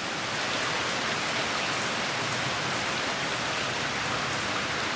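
Steady summer rain falling in an even hiss.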